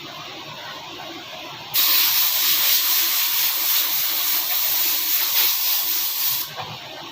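A jet of pressurised gas hissing steadily for nearly five seconds, starting and stopping abruptly.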